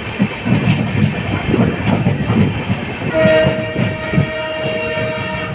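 Indian Railways express train running, wheels rumbling and clacking over the rail joints; about three seconds in a train horn starts and is held as one steady blast.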